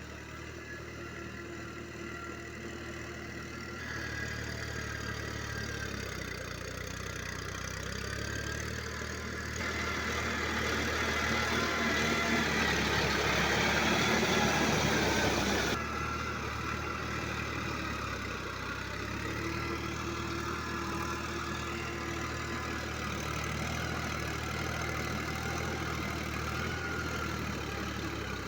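Tractor engine running steadily while ploughing. It grows louder and rougher about a third of the way in, then drops back abruptly just past the middle and runs on evenly.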